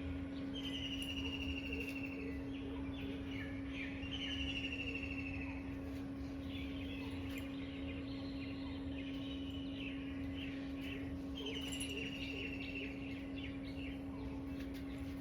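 Birds chirping: a trilled call, falling slightly in pitch and lasting about a second and a half, comes three times among shorter chirps. A steady low hum runs underneath.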